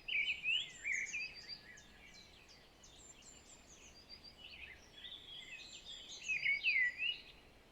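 Forest birdsong ambience: many small birds chirping and whistling in short rising and falling phrases over a faint hiss, busiest in the first second and again about six to seven seconds in.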